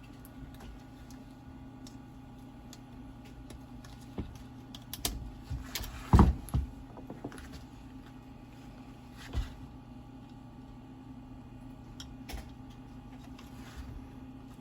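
Light clicks and taps of small parts being handled as carbon brushes are fitted into a Makita 9558HN angle grinder, with a louder run of knocks about six seconds in, over a steady low hum.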